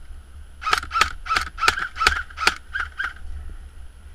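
Airsoft electric rifle firing about eight single shots in quick succession, roughly three a second, each a sharp crack with a brief ringing tone.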